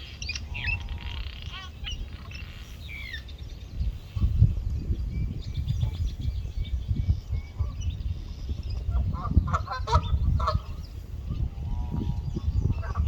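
Several birds chirping and calling, with a quick cluster of calls about ten seconds in, over a low rumble that grows louder about four seconds in.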